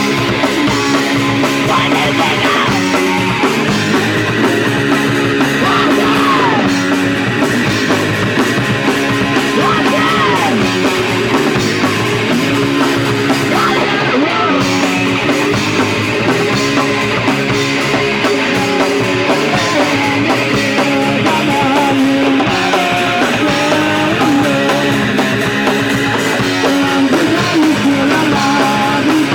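Punk rock band playing live: loud electric guitar-driven punk song without a break.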